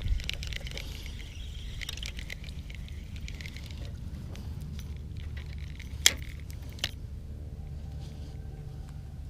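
Small handling noises of a kayak angler over a steady low rumble: light ticks and rattles for the first few seconds, then two sharp clicks about six and seven seconds in.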